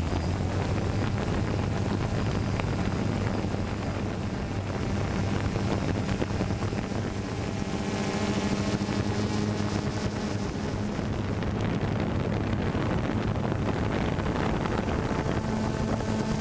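DJI Phantom quadcopter's propellers droning with a steady hum in flight, with wind rushing over the microphone.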